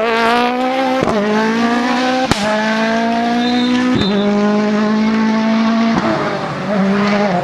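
Rally car engine under full throttle, pitch climbing and then dropping at each of four quick upshifts, with a sharp crack at every shift.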